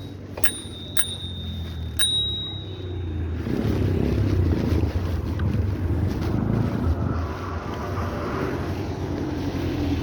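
Bicycle bell rung three times in the first two seconds, each a sharp ding with a short high ring. Then a louder low rumbling noise sets in and continues.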